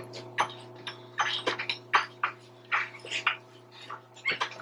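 Irregular metal clinks and knocks from hand tools working on a seized brake on a Dynapac LP650 asphalt roller, about a dozen in a few seconds, over a steady low hum.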